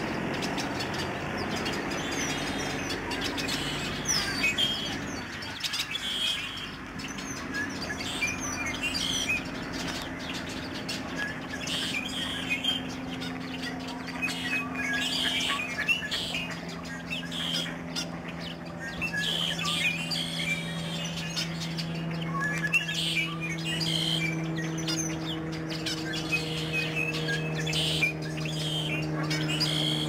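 Small birds chirping again and again in short high calls, with a steady low engine drone underneath that sets in about eight seconds in.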